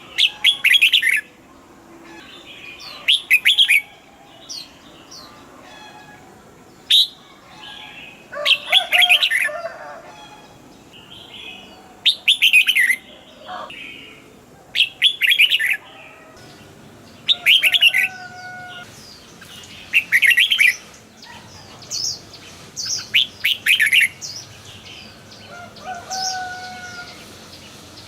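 Red-whiskered bulbul singing: short phrases of quick, bright notes, each about a second long, repeated every two to three seconds, with fainter bird calls between them.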